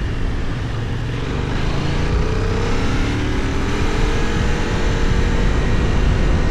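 Benelli Tornado 550's 554 cc parallel-twin engine (270° crank) pulling under way, its pitch rising gently over a few seconds and then holding, under a loud low rumble.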